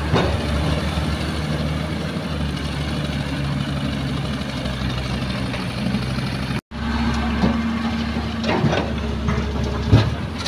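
Heavy diesel earthmoving machinery engine running steadily. A sudden break about two-thirds of the way through is followed by a steadier, higher engine note and a few short knocks.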